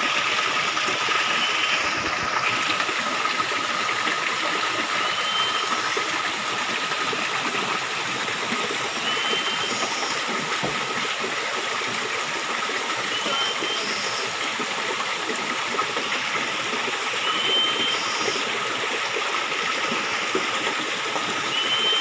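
Waterfall rushing steadily, with a short high call repeating about every four seconds over it.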